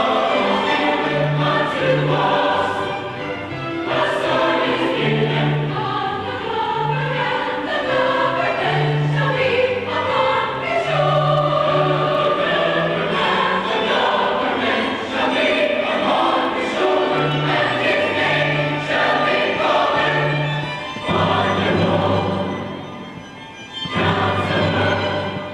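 A choir singing with instrumental accompaniment, sustained notes over a steady bass line.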